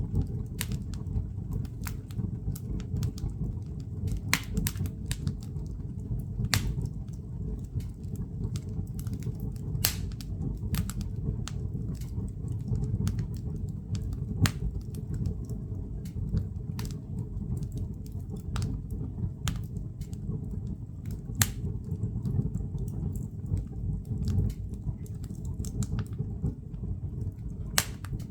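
Wood fire burning in a fireplace, with irregular sharp crackles and pops over a steady low rumble of the flames; a few pops stand out louder than the rest.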